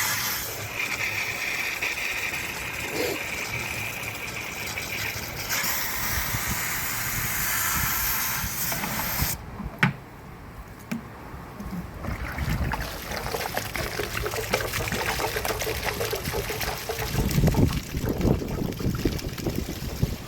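Water rushing and splashing steadily; about nine seconds in the rush drops away into lower, uneven splashing.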